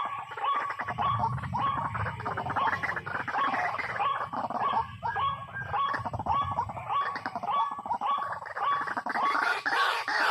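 White-breasted waterhen calls, a rhythmic run of repeated croaking notes at about two a second. A low rumble sits under them for the first several seconds.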